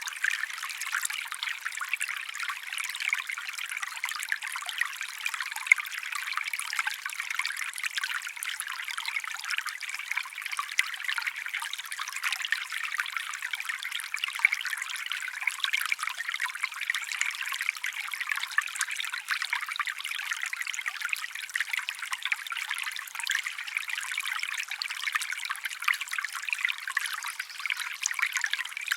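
Water trickling and babbling steadily over stones in a small stream, with fine crackling splashes and no low rumble.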